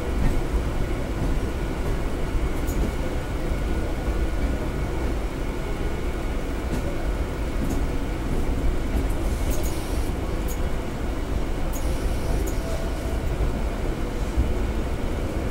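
Suburban electric local train running, heard from its open doorway: a steady rumble of wheels on rails, with short sharp clicks now and then as the wheels run over the points of a crossover.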